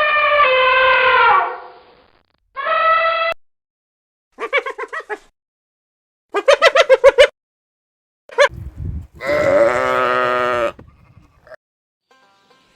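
Livestock bleating: several separate bleats with short gaps between them. Some are broken into quick wavering pulses, and the longest lasts about a second and a half.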